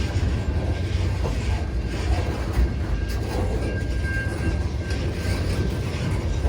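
Freight train cars rolling past at track side: a steady rumble of wheels on rail, with a thin high whine held throughout.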